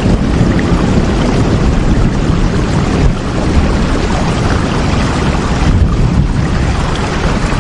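Steady rain: a constant, even hiss of falling water, heaviest in its low rumble.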